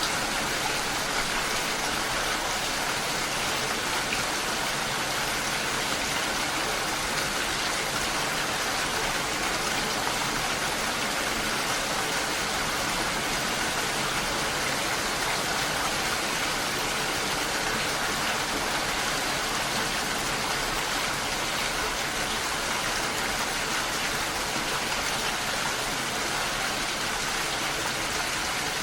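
Steady rain and falling water mixed into one dense, even hiss that holds at a constant level with no single drops or splashes standing out.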